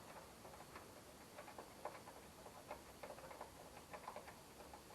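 Near silence, with faint, irregular light ticks several times a second.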